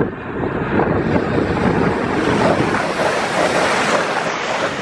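Modern multiple-unit passenger train passing close by at speed. It makes a building rush of wheel and air noise that is loudest near the end, with wind buffeting the microphone.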